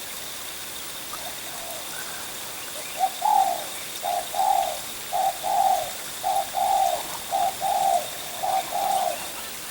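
Spotted dove cooing: six or so two-part coos, a short note then a longer one, repeated about once a second.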